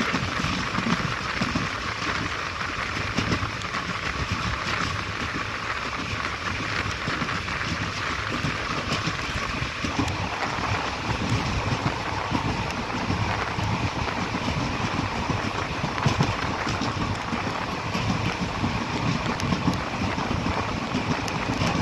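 Passenger train running along the track, heard from an open coach door: a steady noise of the wheels on the rails with scattered clicks, and wind on the microphone.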